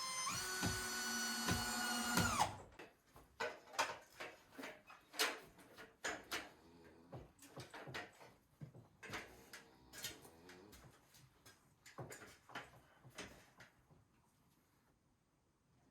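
Power drill running with a whine that steps up in pitch, then stops about two and a half seconds in. It is followed by a string of irregular knocks and clatter from handling timber and tools.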